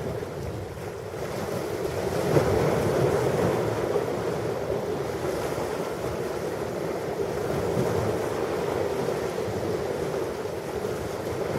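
Ocean waves breaking and washing on a shore, a continuous wash of surf that swells about two seconds in and again later.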